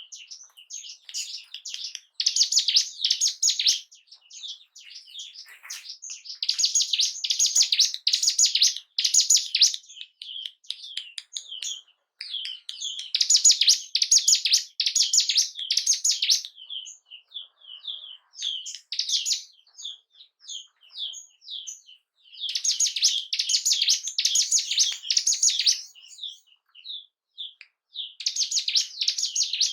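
Ciblek gunung songbird singing: bursts of fast, high chattering song a few seconds long, broken by short pauses filled with sparse single chip notes.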